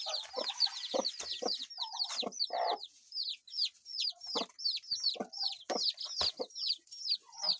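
Newly hatched chicks peeping continuously, a rapid run of high chirps that each fall in pitch, several a second, with the low clucks of the broody hen mixed in.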